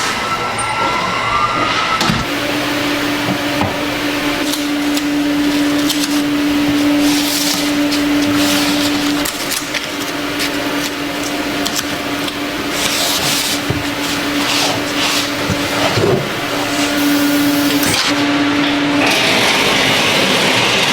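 Production machinery running on a filter-making line: a steady mechanical noise with a low hum that comes and goes and repeated short bursts of hiss.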